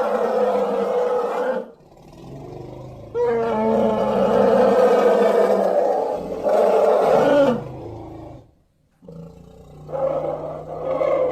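Elephant calls: a series of loud, harsh, fairly low-pitched calls, each a few seconds long, with short breaks between them. The longest lasts about four seconds.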